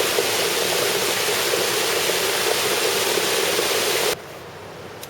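Water rushing down a small waterfall, a loud steady rush that cuts off abruptly about four seconds in, leaving much quieter background noise.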